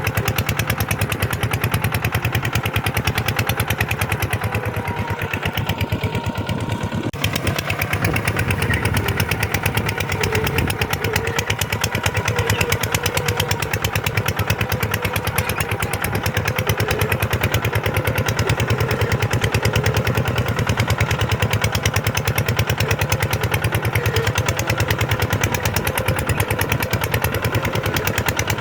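Kubota tractor's diesel engine running steadily under load while plowing, with a fast, even firing beat. There is a brief dip about seven seconds in.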